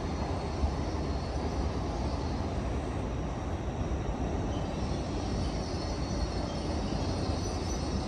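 Hitachi Class 802 bi-mode train pulling away from the platform, a steady low running noise with no sudden sounds.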